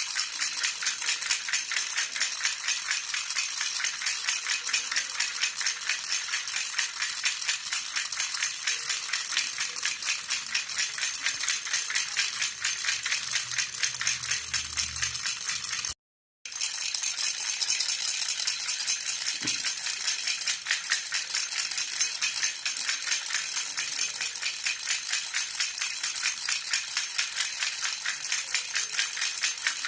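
Jhunjhuna baby rattle shaken continuously in a fast, even rhythm, giving a bright jingling rattle. It breaks off for a split second about halfway, then carries on.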